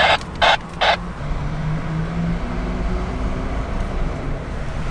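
Vehicle engine running at low speed, a steady low rumble, with three short bursts of noise in the first second.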